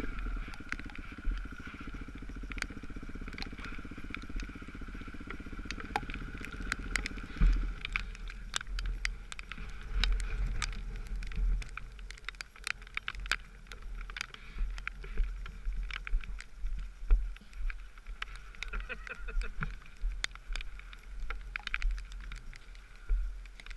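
Dirt bike engine running steadily, its low note dropping away about seven seconds in. After that come frequent sharp knocks and clatter over gusty wind rumble on the microphone.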